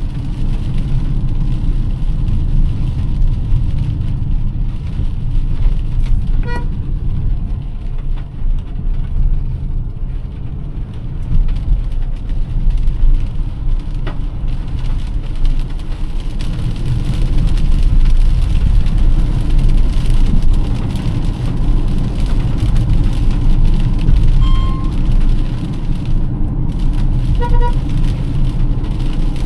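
Car driving on a wet road in rain: a steady low rumble of engine and tyres under a hiss of rain and spray. Short horn beeps sound about a quarter of the way in and twice near the end.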